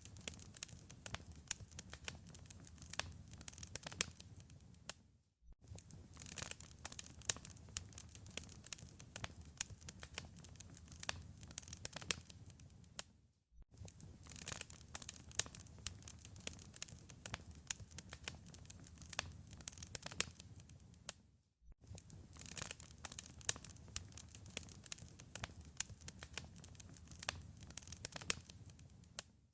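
Wood fire crackling: dense sharp pops and snaps over a low rumble of flame. The sound drops out to silence for a moment about every eight seconds, three times.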